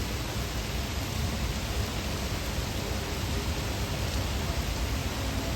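Heavy rain pouring steadily, a dense even hiss with a strong low rumble underneath.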